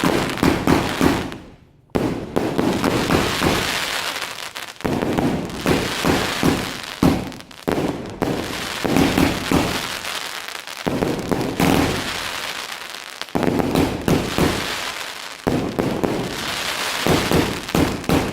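Fireworks going off in a dense barrage: many bangs and crackles overlapping with hardly a pause. There is a short lull under two seconds in, then the bursts start again.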